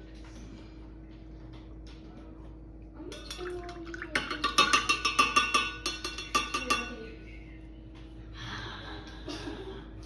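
A rapid run of clinking taps on something hard that rings, about five a second for some three seconds starting about three seconds in, followed near the end by a brief swishing noise.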